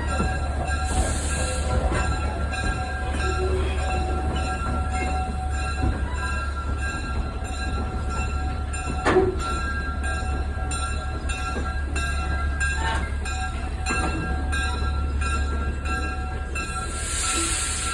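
Pine Creek Railroad train rolling slowly with a steady low rumble and a faint squeal from the wheels. There is a sharp knock about halfway through, and a brief hiss about a second in and again near the end as the train nears its stop.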